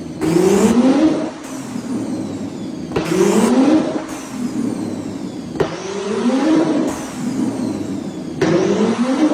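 Car engine revved hard four times, about every three seconds: each rev starts suddenly, climbs quickly in pitch, then falls back to a rough idle.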